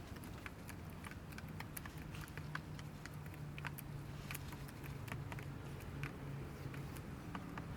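Feeding birds pecking, many quick irregular taps, over a steady low hum.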